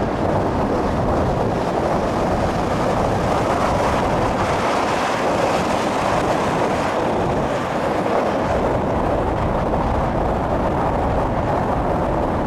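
Steady rushing noise of a vehicle driving on a snow-covered road: tyre and wind noise.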